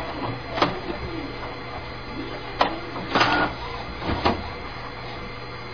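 A small machine running with a steady hum, broken by four short knocks spread through it.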